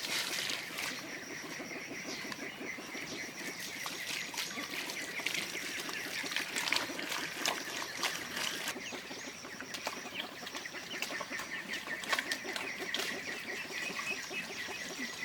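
Outdoor ambience of birds calling, with a steady high chirring and many scattered clicks and rustles.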